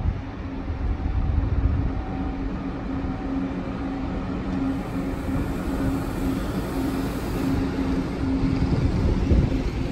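SBB double-deck S-Bahn train running into the station: the train rumbles along the rails under a steady electric hum.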